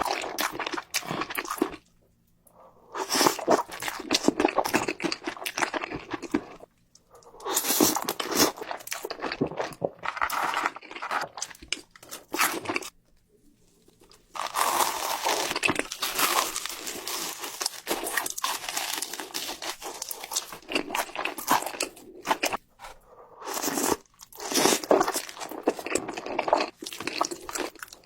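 A person crunching and chewing seafood, in several stretches of dense crackling bites broken by short pauses.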